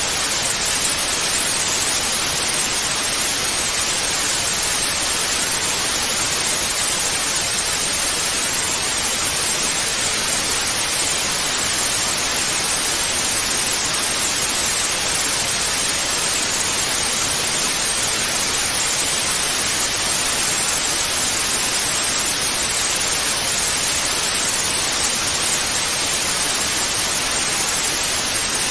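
Television static: a steady, unchanging hiss of white noise, strongest in the upper-middle range.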